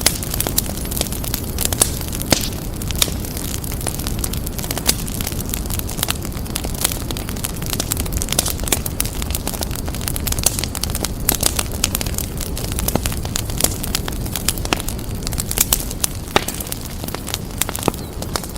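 Wood fire burning with a steady low rumble and frequent sharp crackles and pops throughout.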